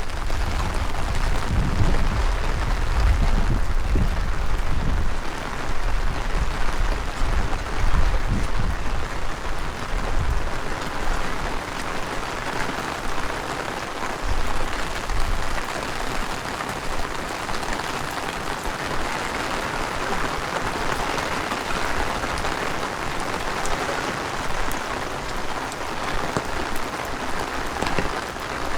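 Heavy rain falling steadily on the street, a dense even hiss. For about the first ten seconds gusts of strong wind buffet the microphone with a low rumble, which then dies away, leaving the rain.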